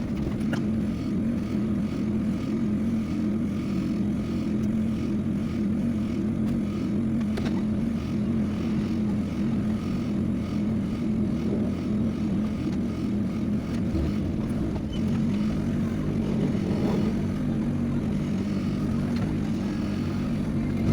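A vehicle engine running at a steady cruising speed while on the road, an even drone with no change in pitch.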